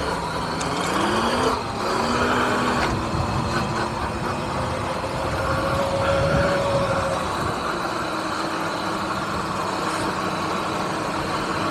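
Electric dirt bike being ridden: a motor whine that rises and falls in pitch with speed, over a steady rushing noise.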